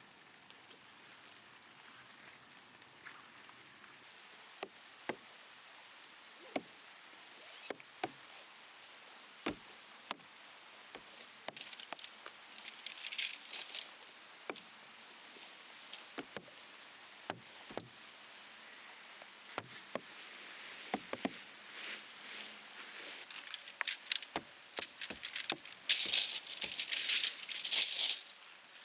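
Raindrops tapping irregularly on a plastic sheet wrapped over the camera, with the steady hiss of rain behind. The taps come more often toward the end, with a louder rush of rain twice.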